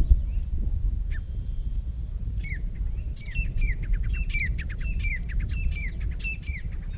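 A bird calling over a steady low rumble: a couple of single calls, then from about two and a half seconds in a quick series of short down-slurred calls, about two a second, that stops near the end.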